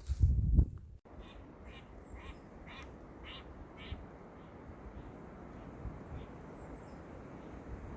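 A bird or animal calling in a regular series, about two short calls a second, clearest for a few seconds and then fading, over a steady low rush of wind. A few heavy low thumps come right at the start.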